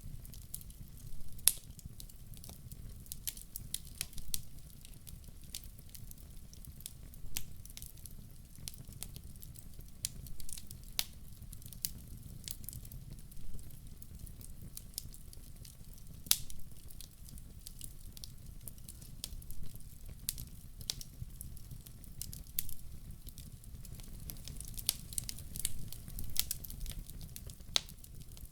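Wood fire burning in a fireplace: irregular crackles and sharp pops over a low, steady rumble. The loudest pops come about a second and a half in and around the middle, with a quicker run of crackles near the end.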